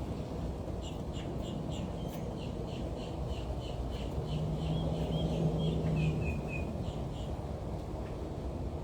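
A bird calling a quick series of short, repeated high notes, a few lower notes closing the run, over a steady low background rumble.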